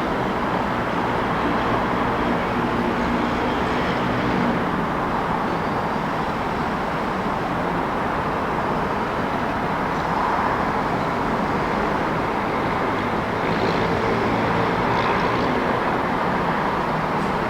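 Steady city traffic noise: a continuous wash of passing vehicles, with faint engine hum that swells briefly twice.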